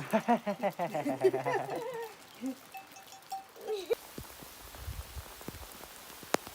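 A farm animal of the flock bleating: one long, wavering, quivering call lasting about two seconds. Rain pattering steadily comes in about four seconds in.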